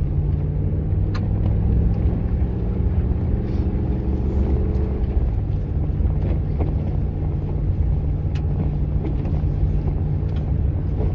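Vehicle engine running steadily with road noise, heard from inside the cab while driving up a snowy grade, with a few faint clicks.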